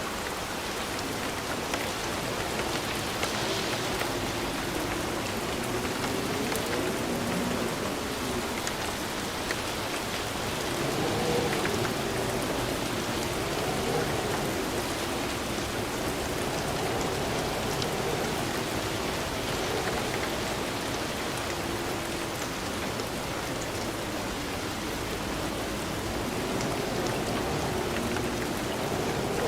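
Steady rain falling, a continuous even hiss of drops, with a faint low tone underneath that rises and falls every couple of seconds.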